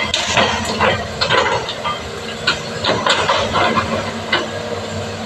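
Excavator diesel engine running steadily, with a series of short irregular bursts of hissing and scraping from the machine working.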